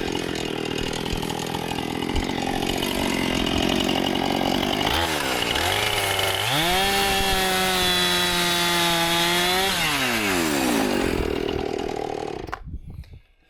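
Two-stroke chainsaw cutting timbers to length. The engine drops back about five seconds in, revs up again and holds steady for a few seconds, drops back near ten seconds, then stops shortly before the end.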